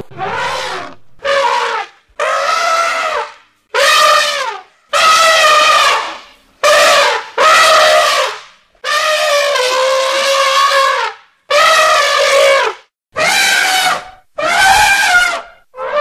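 Elephant trumpeting over and over: about a dozen loud, brassy calls of a second or so each, bending in pitch, with short gaps between them.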